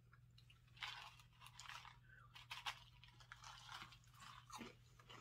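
Faint, irregular crunching of a person chewing a small, seed-like crunchy corn snack.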